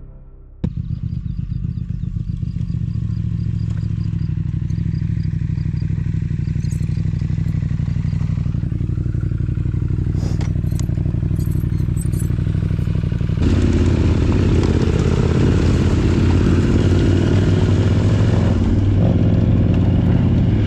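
Parallel-twin adventure motorcycle engine running steadily under way, cutting in suddenly about half a second in and getting louder about two-thirds of the way through, with some clatter over it.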